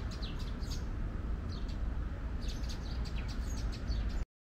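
Small birds chirping in two clusters of short, quick, falling chirps, over a steady low rumble. The sound cuts off abruptly near the end.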